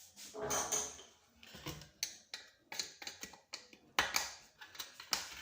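Irregular metallic clicks, taps and knocks of hand tools against screws and metal plates during the repair of a barber chair's headrest mechanism, with a short scrape just after the start and the sharpest knock about four seconds in.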